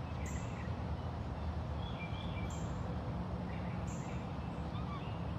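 Outdoor ambience: a few faint bird chirps over a steady low rumble.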